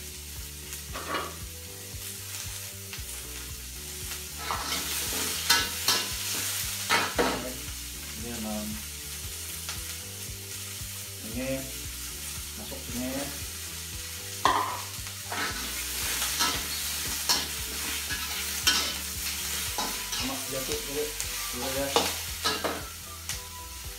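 Onions and meatballs sizzling as they fry in oil in a wok, with a metal spatula scraping and knocking against the wok as the food is stirred. There are a couple dozen sharp scrapes and clacks over a steady high sizzle.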